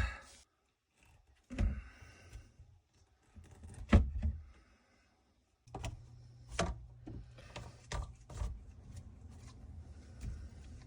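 Scattered knocks and clicks of a bathroom sink's P-trap and drain parts being handled and refitted, with a low steady hum starting about halfway through.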